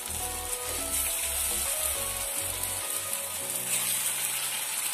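Pieces of colocasia-leaf rolls deep-frying in hot oil with a steady sizzle. Background music plays alongside.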